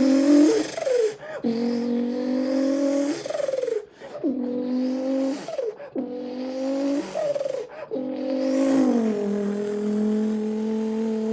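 A man's mouth imitating a Nissan Skyline GT-R R32's engine pulling through the gears. A buzzing note climbs slowly and drops suddenly, over and over, like revs rising and falling at each upshift, with short breaks for breath. Near the end it glides down to a long, steady lower note.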